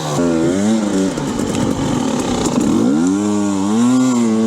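Dirt bike engine revving up and down in repeated bursts, its pitch rising and falling several times, then held high for a longer rev about three seconds in.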